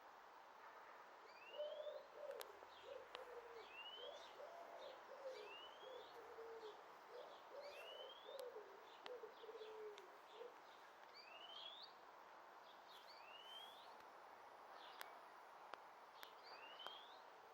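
Birds calling faintly: a low cooing phrase of several notes in the first half, and short high rising calls repeated about every second or two throughout.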